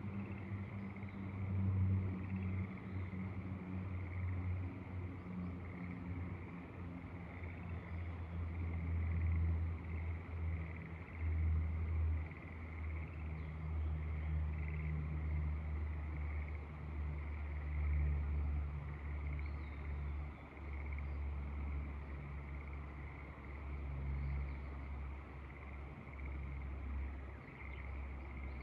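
Wind buffeting the microphone in uneven low gusts, over a steady chorus of frogs trilling in the rice paddies, with a few faint bird chirps.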